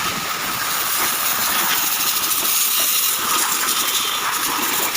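High-pressure water jet hissing steadily as it washes caked dirt off the parts of an opened car gearbox.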